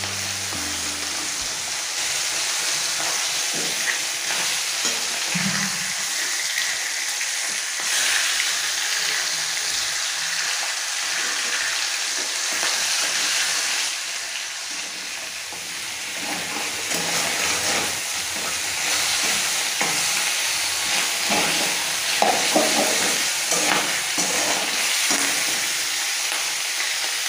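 Rohu fish head frying in hot oil in a metal kadai: a steady sizzle, with a metal spatula scraping and knocking against the pan now and then, more often near the end.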